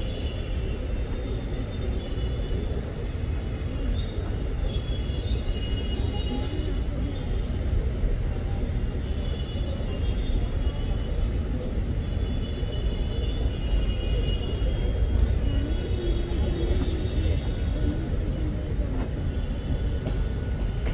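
Steady low rumble of a train running at a railway station, with faint voices in the background.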